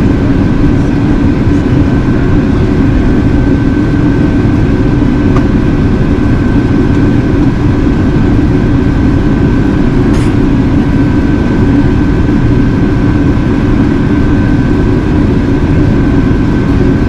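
Airbus A380 cabin noise in flight: a loud, steady drone of airflow and engines, with a faint steady high whine over it.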